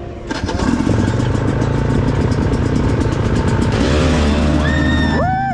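Dirt bike engine running under way, pulling harder and rising in pitch as it revs up about two-thirds of the way through. Near the end a held, pitched tone rises and falls over it.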